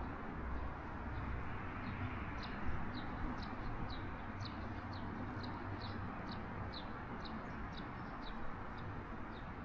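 A bird calling with a steady run of short, high, falling chirps, about three a second, starting about two seconds in, over steady background noise.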